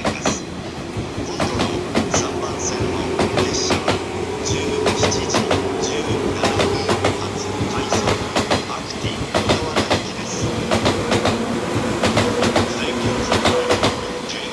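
A 185-series electric train departing, its wheels clicking repeatedly and irregularly over rail joints with a steady running hum underneath.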